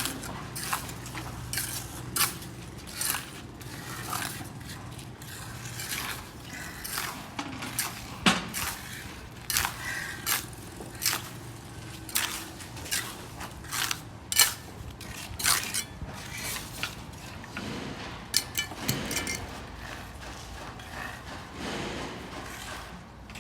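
Ceramic roof tiles and hand tools being handled: irregular clinks, knocks and scrapes of hard tile, at an uneven pace.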